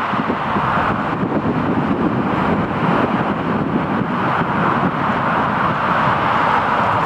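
Steady rumble and hiss of jet aircraft engines running at an airport, unbroken throughout.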